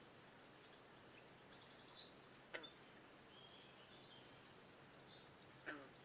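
Faint birdsong: small birds chirping and trilling high-pitched, with two short, sharp calls that drop in pitch, one about halfway through and one near the end, over a low background hiss.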